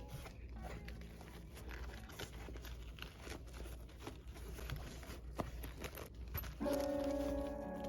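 Light rustling and small scattered clicks of a pencil case and its packaging being handled. Background music comes in about two-thirds of the way through.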